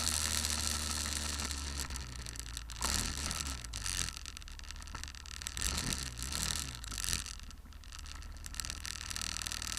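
Car driving, heard from inside through a dashcam: a steady low engine and cabin hum under road noise, with a few brief louder scraping moments about three and seven seconds in.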